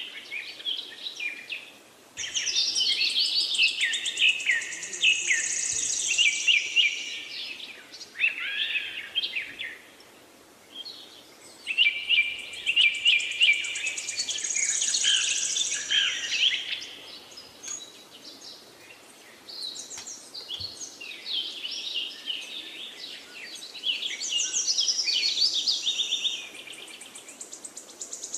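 Songbirds singing, rapid chirps and trills in bursts of several seconds with quieter gaps between.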